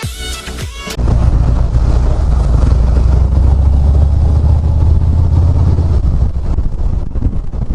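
Harley-Davidson Ultra Limited's V-twin engine running while riding, a loud steady low rumble mixed with wind buffeting the microphone, starting suddenly about a second in.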